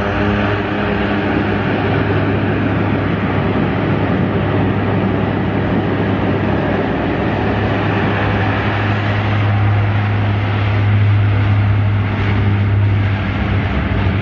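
Aircraft engines droning steadily overhead, swelling louder about two-thirds of the way through, then easing off.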